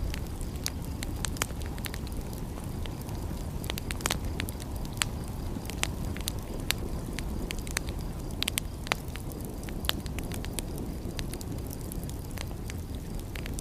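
Wood fire crackling, with many irregular sharp pops and snaps over a steady low rush.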